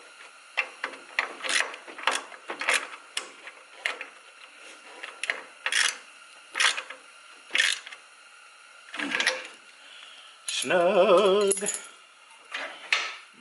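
Irregular metallic clicks and clinks of a socket wrench tightening a bolt down until it is snug.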